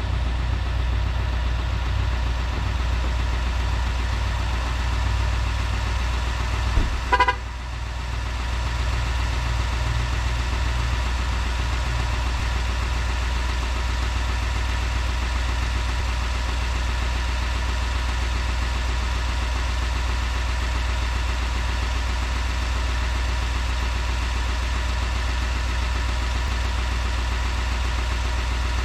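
Steady low hum of the 2020 Silverado 3500 HD's 6.6-litre Duramax diesel idling. About seven seconds in there is a click and a brief horn chirp.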